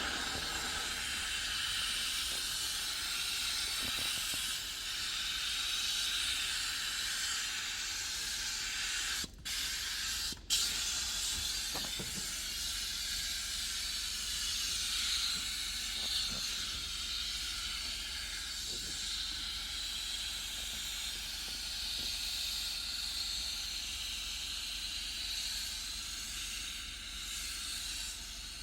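Pressurised nozzle of a detailing tool hissing steadily, cut off briefly twice about nine and ten and a half seconds in.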